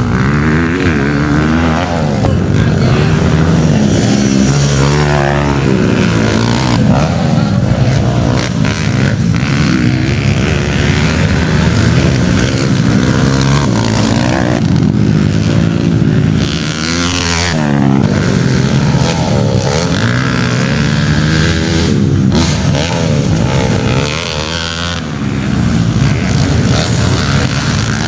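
Motocross bikes racing, several engines overlapping and revving up and down as they accelerate and shift.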